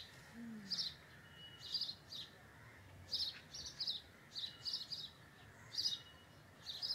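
Small birds chirping: short, high chirps repeated every half second to a second, with a few faint thin whistles, over faint steady background noise.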